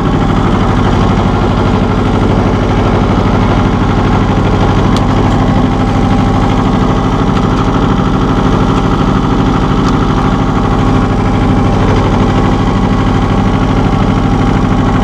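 John Deere 650 compact tractor's three-cylinder diesel engine running steadily at a constant speed while the tractor stands still.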